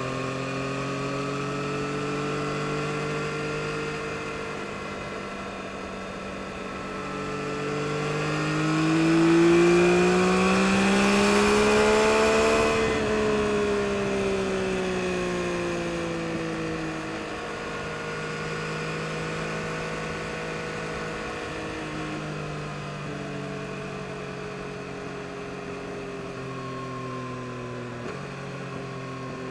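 2022 Yamaha MT-09 SP's 890 cc inline-three engine running under way. It climbs in pitch as the bike accelerates to a peak about halfway through, with wind noise rising alongside, then eases back down and holds a steady cruise.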